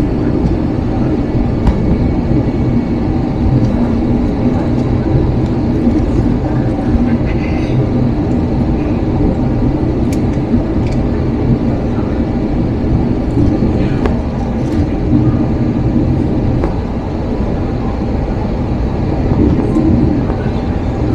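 Steady, loud low rumble of cabin noise inside an Airbus A321 airliner, with a constant hum running under it and a few faint ticks scattered through.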